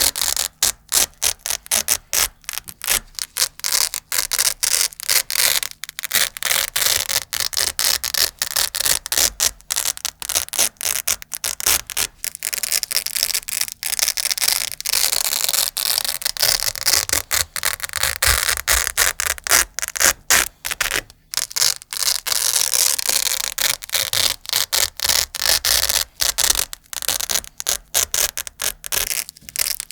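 Velcro hook-and-loop fastener pulled apart and scratched close to the microphone: a crunchy crackle in quick, uneven strokes with brief gaps between them.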